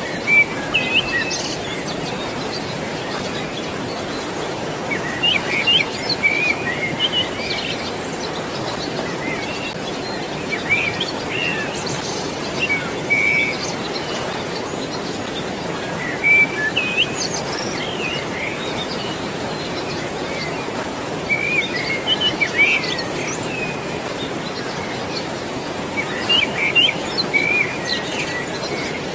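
Steady rushing water with songbirds chirping over it in short bouts every few seconds.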